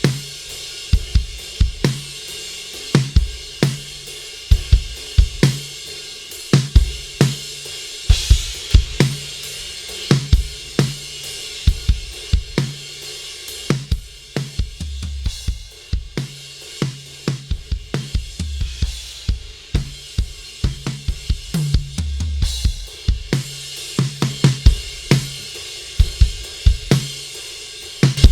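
Recorded drum kit playing a steady groove of kick, snare and hi-hat, with a cymbal crash about eight seconds in, run through a Heritage Audio HA-609A diode-bridge compressor.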